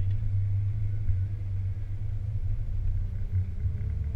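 Porsche 996 Turbo's twin-turbo flat-six running at low, steady revs, heard from inside the cabin as a deep, even rumble.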